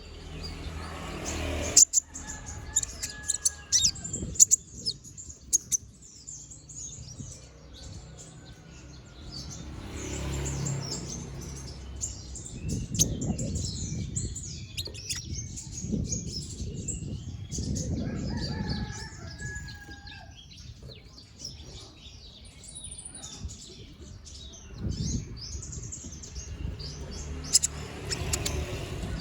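Kolibri ninja sunbird chattering in a rapid, high twitter, with sharp, loud, piercing call bursts near the start and again near the end. A low rustling noise comes and goes under the song in the middle.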